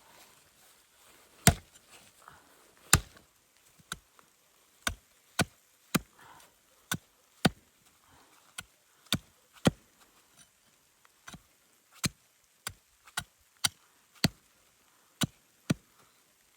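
Wood being chopped: a long series of sharp, irregular blows, roughly one or two a second, with two loud strikes near the start.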